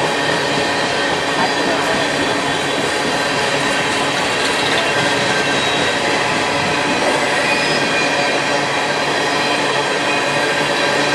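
Freight train cars rolling past at steady volume, with a thin, steady wheel squeal riding over the rumble of the wheels on the rails.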